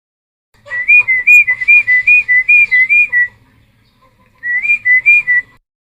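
Cucak timor singing: a quick whistled phrase of notes that alternate between two close pitches, lasting about two and a half seconds, then a shorter phrase of the same pattern about a second later.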